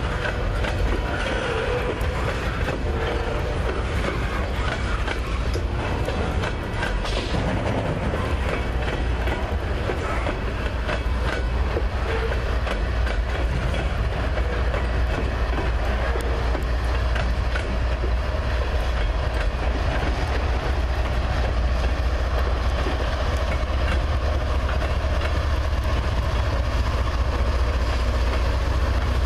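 Freight train of pipe-loaded flatcars rolling past at steady speed, with continuous wheel-on-rail noise and clickety-clack from the wheels. A deep rumble grows through the second half, and BNSF diesel locomotives come by near the end.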